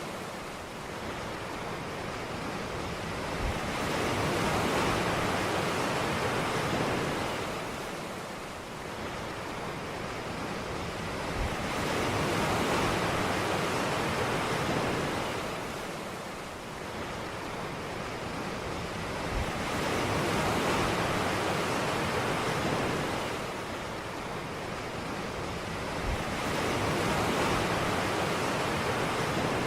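Ocean waves breaking on a beach. The surf rises and falls in slow surges about every eight seconds, four in all, each starting with a faint low thump.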